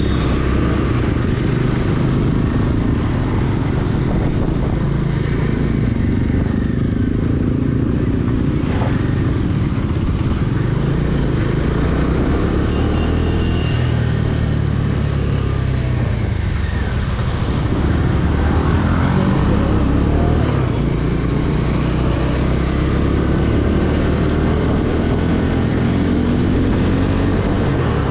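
Bajaj Dominar 250's single-cylinder engine running under way, its note rising and falling with the throttle over a steady hiss of wind and road noise.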